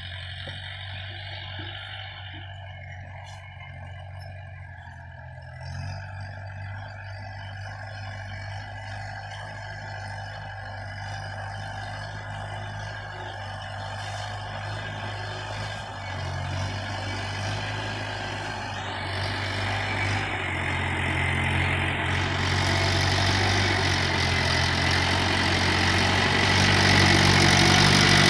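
Tractor engine running steadily, growing gradually louder toward the end.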